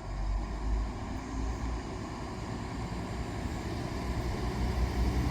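Siemens Desiro VT642 diesel multiple unit pulling out, its diesel engines running with a low rumble that builds gradually louder.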